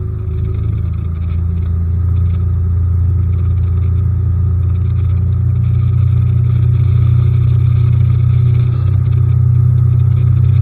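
Outboard motor on a bass boat running steadily under way, a deep steady drone that grows slightly louder over the first few seconds.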